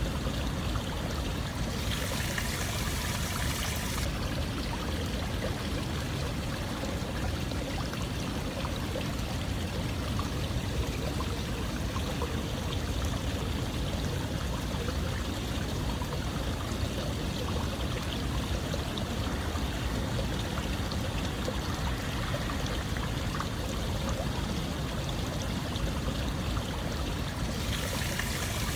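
Water flowing and splashing steadily, a stream-like rush with a brief brighter hiss about two seconds in and again near the end.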